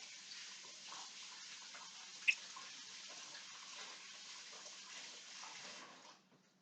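Water running faintly from a tap, shut off about six seconds in, with one sharp click about two seconds in.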